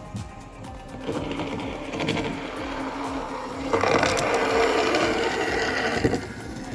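Model train locomotive running along the track: a steady motor whine under a rattle of wheels and light clicks. It grows louder about a second in and louder again near the middle, then drops back about six seconds in.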